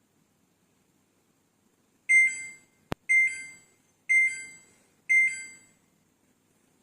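Samsung front-load washing machine's control panel beeping four times, about a second apart, with a single sharp click just before the second beep.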